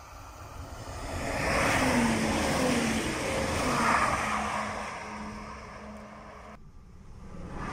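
TER Grand Est diesel multiple unit passing close at speed: a rush of wheels on rail swells and fades, with a low engine hum that drops in pitch as the train goes by. The sound cuts off abruptly near the end.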